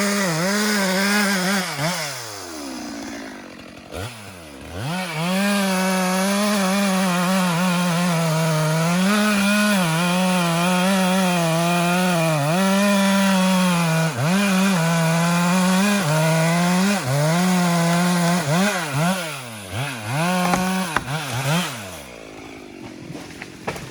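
Chainsaw cutting wood at full throttle, its pitch dipping and recovering as the chain bogs in the cut. It drops to idle about three seconds in, then revs quickly several times near the end before falling back.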